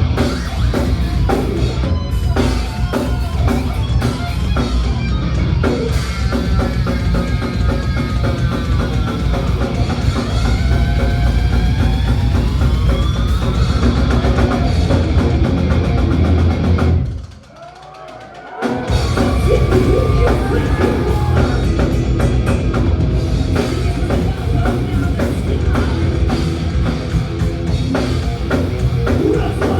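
Live thrash metal band playing loud, with pounding drums and distorted guitars, and high notes gliding up and down over them. About seventeen seconds in, the band stops dead for about a second and a half, then crashes back in.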